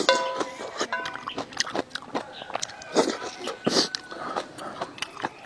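Close-miked eating: biting and chewing food, with many sharp wet clicks and smacks of the mouth.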